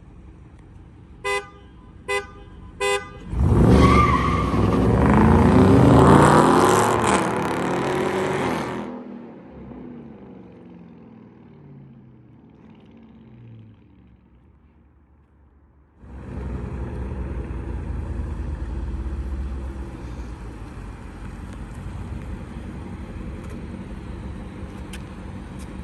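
Three short car horn honks, then two Dodge Charger Hemi V8s (a 6.4-litre Scat Pack and a 5.7-litre R/T) launch at full throttle side by side. Their engine pitch rises as they accelerate and they fade away over several seconds. About 16 seconds in, a steady noise takes over.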